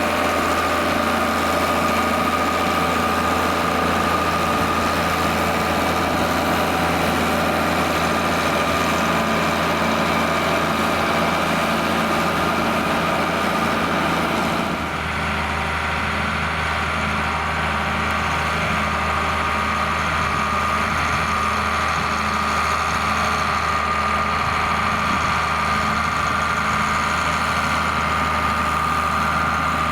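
John Deere 4850 tractor's six-cylinder turbo diesel running steadily. About halfway through the sound changes, losing much of its upper hiss, then carries on evenly.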